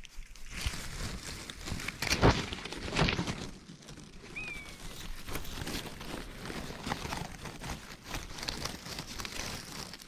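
Irregular rustling and crunching of dry leaves and twigs underfoot in woodland undergrowth, louder crunches about two and three seconds in, with one short falling bird chirp near the middle.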